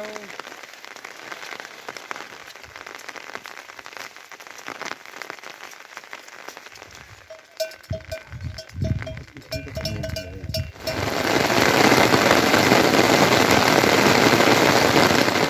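Rain pattering, then a run of short repeated high chirps with a few dull thuds, then heavy rain pouring down loudly from about eleven seconds in, which cuts off at the end.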